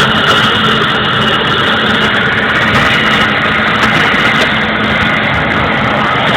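Vickers Vanguard's Rolls-Royce Tyne turboprop engine running steadily, a loud, even rush of propeller and engine noise with a high steady whine over it.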